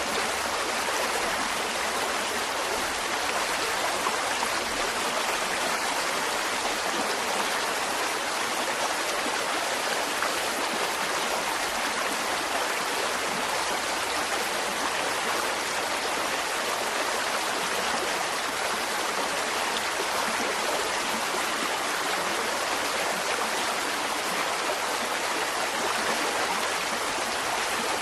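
Mountain stream running steadily over rocks, a continuous rushing and burbling of water with no changes.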